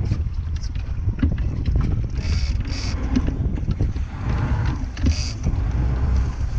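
Fishing boat's engine running with wind buffeting the microphone as a steady low rumble, broken by a few short hisses.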